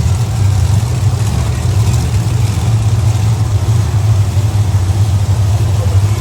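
Monster truck engine idling: a loud, steady, deep rumble that holds level throughout.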